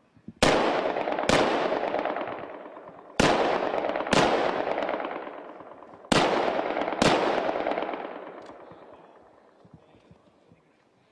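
Six single shots from G36 5.56 mm assault rifles, fired in three pairs: the two shots in each pair come just under a second apart, and the pairs come about three seconds apart. Each shot leaves a long, fading echo.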